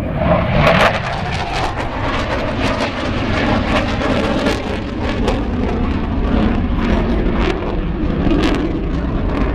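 Loud, steady jet noise from a Panavia Tornado GR4's twin RB199 turbofan engines during a flying display.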